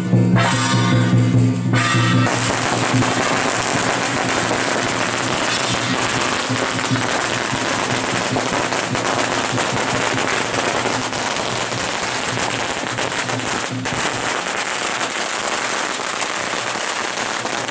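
A long string of firecrackers going off in a dense, continuous crackle for about fifteen seconds, starting about two seconds in and covering festive music that is heard at the start.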